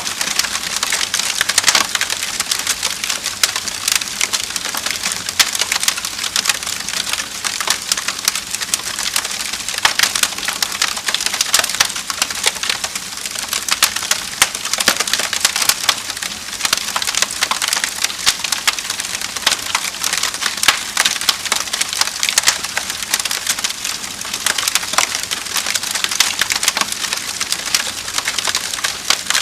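Wood fire crackling, with many small sharp pops and snaps over a steady hiss.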